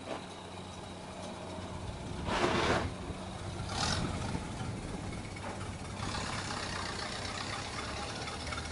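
Vehicle engine idling steadily, with two short bursts of noise about two and a half and four seconds in.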